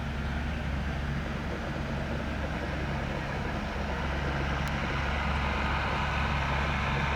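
Large diesel fire engine running steadily at idle, a constant low hum with a hiss above it that grows a little louder over the few seconds.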